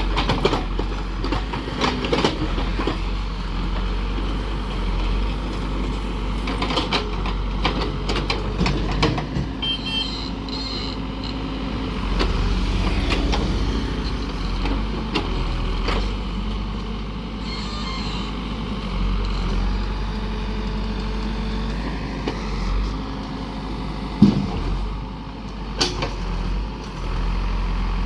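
Heavy diesel construction machinery running steadily, with scattered metallic knocks and clanks. A few short high beeps come about a third of the way through, and a sharp knock comes a little before the end.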